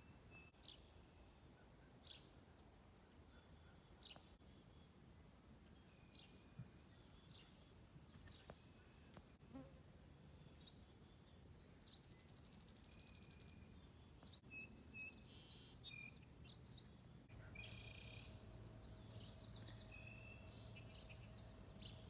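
Faint outdoor birdsong: short chirps and calls every couple of seconds, growing busier in the last few seconds. A faint steady hum comes in about three-quarters of the way through.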